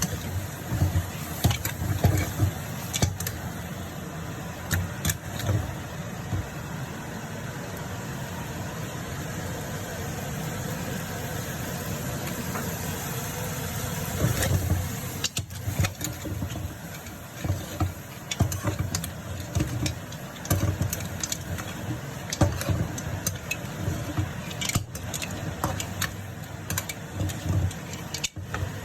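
Stir-frying in a wok: a gas burner's steady low rush under sizzling, with a metal spatula repeatedly clanking and scraping against the pan at irregular intervals.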